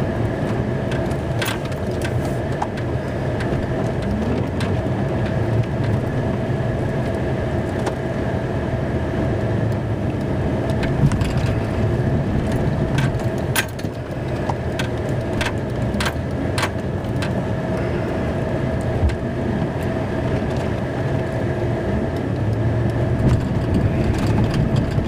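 Snow-plow pickup truck driving, heard from inside the cab: a steady engine rumble with a constant whine and scattered sharp clicks and knocks.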